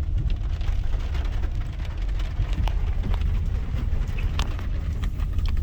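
Steady low rumble of a car's engine and tyres heard inside the cabin while driving slowly, with a few faint clicks.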